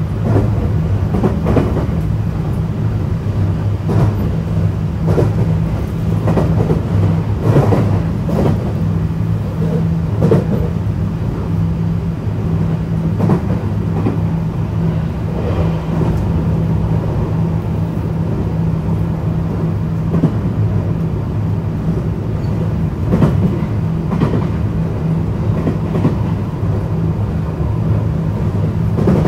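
Running sound of a JR West 321 series electric train at speed, heard from inside the car: a steady low rumble of wheels and traction equipment, with sharp clicks from rail joints every second or few seconds.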